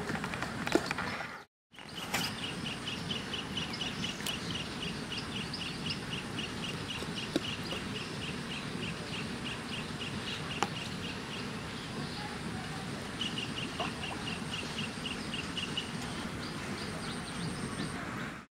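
A bird calling a long series of short, evenly repeated high notes, about three or four a second, that pauses and then resumes. It sits over steady outdoor background hiss, with a faint high steady whine above it. The sound drops out briefly about a second and a half in.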